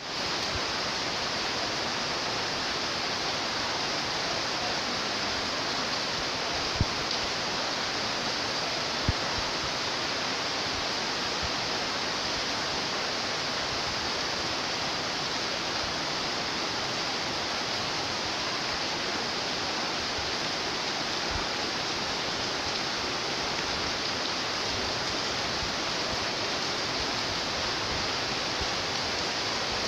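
Steady rain falling, an even hiss that does not let up, with two brief low thumps about 7 and 9 seconds in.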